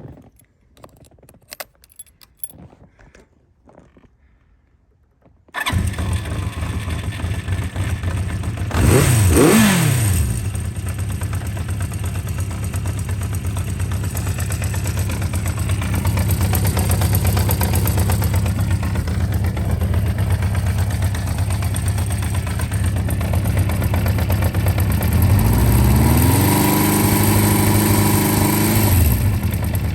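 Honda CB400F motorcycle engine with a Marving aftermarket exhaust, started from cold: after a few faint clicks and rattles it fires suddenly about five seconds in and settles into a steady idle. It is blipped once, the pitch rising and falling, a few seconds after starting, and near the end it is held at raised revs for a few seconds before dropping back to idle.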